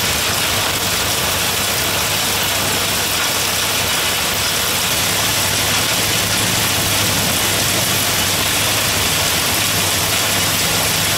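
Heavy rain mixed with small hail pouring onto wet pavement, a loud, steady hiss, with the low hum of an idling car engine underneath.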